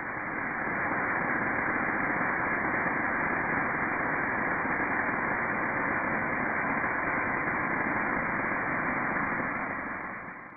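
Waterfall's steady rush of falling water, a dull, even roar without the high hiss, fading out near the end.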